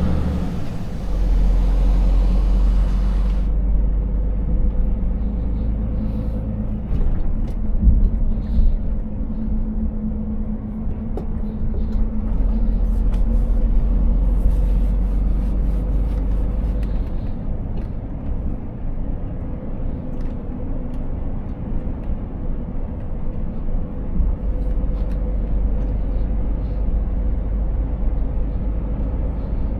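Scania 500S truck's 13-litre six-cylinder diesel running at a steady cruise with road noise, a constant low rumble. A hiss stops about three seconds in, and a few sharp knocks come around eight seconds in.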